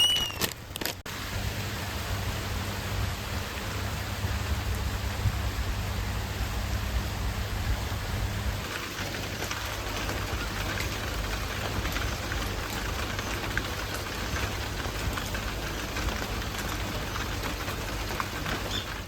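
Steady, even rain-like hiss, with a low hum underneath for the first eight seconds or so. A brief rising whistle comes right at the start.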